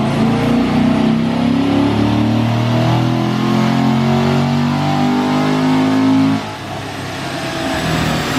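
Car engine at full throttle in a dyno pull, its pitch climbing steadily for about six seconds before the throttle closes abruptly and the engine drops back to a lower, quieter running.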